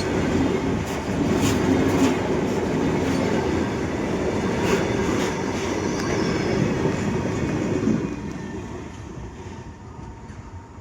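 Goods train wagons rolling past on the track, a steady rumble with occasional wheel clacks over the rail joints. About eight seconds in the sound drops sharply and fades away.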